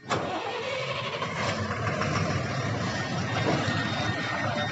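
Ashok Leyland 3718 truck's diesel engine running steadily as the truck is moved forward at low speed. The sound comes in abruptly at the start and then holds an even level.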